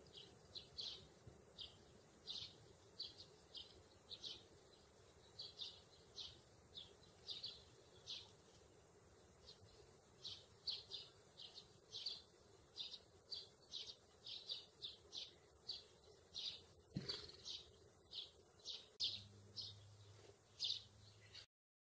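Small bird chirping: faint, short, high chirps repeated irregularly, about one or two a second.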